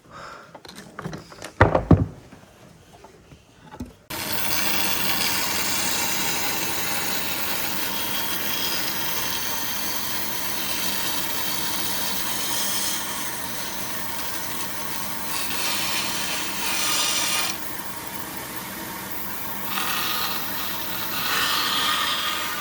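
A few knocks of wood being handled, then an electric power tool comes on abruptly about four seconds in. It runs steadily, cutting wood, with small rises and falls as it works.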